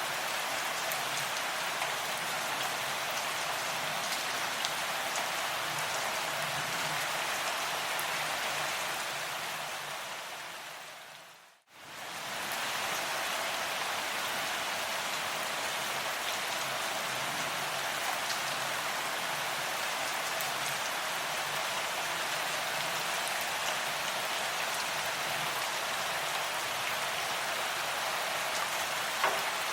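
Steady rain falling, a dense even hiss with scattered individual drop ticks. About eleven seconds in it fades out to silence for a moment and then fades back in.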